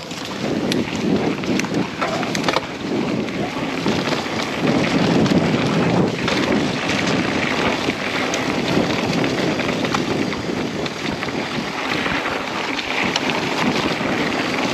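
Wind buffeting the camera's microphone while a mountain bike rolls down a dirt trail, with scattered sharp clicks and rattles throughout.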